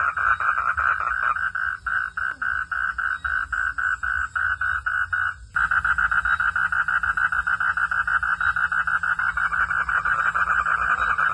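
Frogs calling at night in a rapid, evenly pulsed trill, several pulses a second. The pulsing breaks off for a moment about five and a half seconds in, then resumes faster and denser. A steady low rumble runs underneath.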